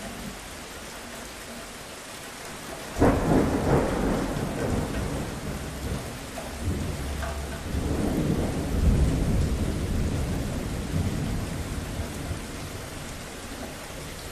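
Steady rain with a thunderclap: a sudden crack about three seconds in, then a long low rumble that swells again midway and slowly dies away under the rain.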